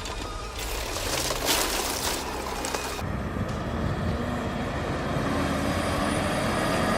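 Heavy machinery engine noise. About three seconds in it cuts abruptly to a different, steadier engine running, growing slowly louder.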